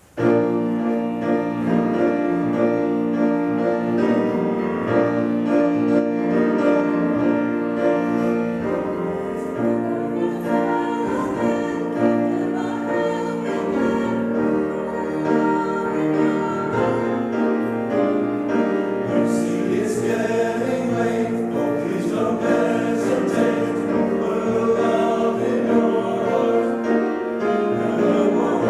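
Choir singing with piano, starting suddenly right at the beginning and carrying on steadily.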